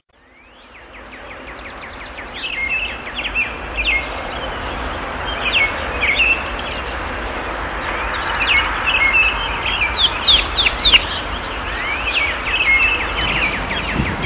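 Birds chirping over and over above a steady outdoor hiss, with a low rumble of wind on the microphone; the sound fades in over the first couple of seconds.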